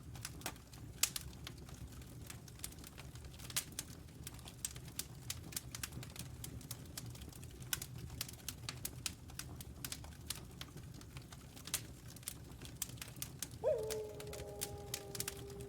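Wood fire crackling, with frequent sharp pops over a low rumble. About fourteen seconds in, a distant wolf starts a long howl that slowly falls in pitch and is still going at the end.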